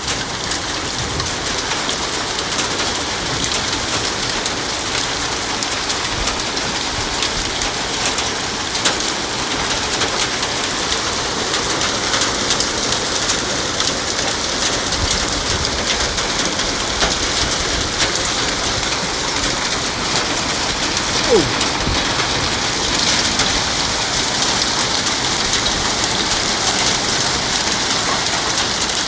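Heavy rain with hail beating down on hard surfaces: a dense, steady hiss of rain dotted with many sharp ticks of hailstones striking. About two-thirds of the way through, a short falling tone sounds, the loudest moment.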